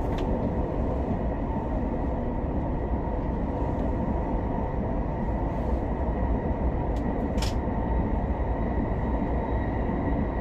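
Interior running noise of an SR 120000-series high-speed train: a steady, even rumble from the wheels and running gear, with a faint high whine throughout. A brief hiss about seven and a half seconds in.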